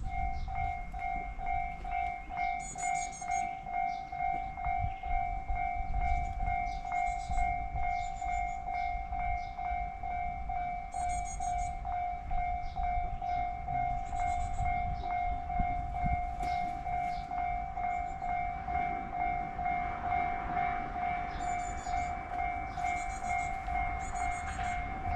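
Railway level-crossing alarm ringing in an even, rapid two-tone ding-ding pattern, signalling an approaching train. Small birds chirp over it.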